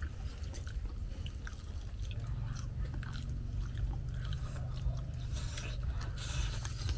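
Several people chewing and biting into batter-fried bananas, with small crackles from the crisp fried crust over a steady low hum.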